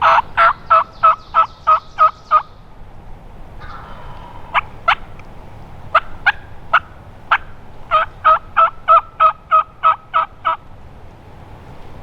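Turkey yelping: two runs of eight to ten sharp, evenly spaced yelps at about three a second, with a few single yelps spaced out between them.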